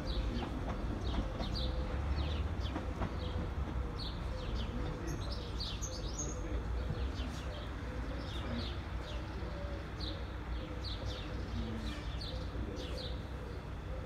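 Small birds chirping repeatedly, short high chirps over a steady low rumble.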